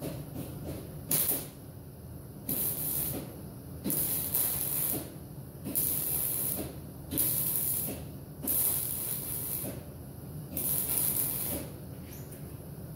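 Welder laying short stitch welds on a sheet-steel body patch panel: a crackling hiss that starts and stops about eight times, each burst half a second to a second long, over a steady low hum.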